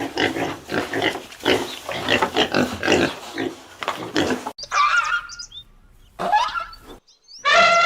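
Animal calls: a fast, dense run of short rough calls for about four and a half seconds, then, after a sudden cut, a few separate calls.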